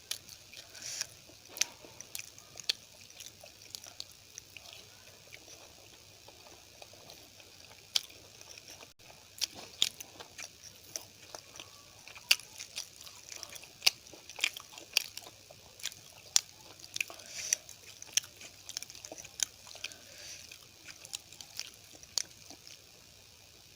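Close-miked chewing and mouth sounds of a person eating a meal of curry, rice and poori: irregular wet smacks and sharp clicks, a few a second.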